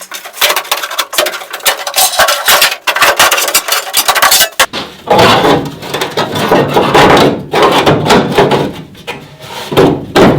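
Hand work on sheet-metal parts: about four seconds of rapid rasping scrapes, then several longer rubbing strokes of about a second each.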